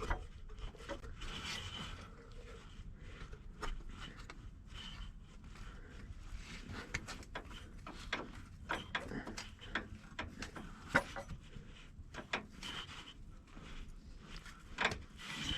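Faint, scattered clicks and light knocks of parts being handled and fitted back onto the engine by hand.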